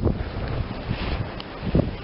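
Snowstorm wind buffeting the camera microphone: a steady, noisy rush heaviest in the low end.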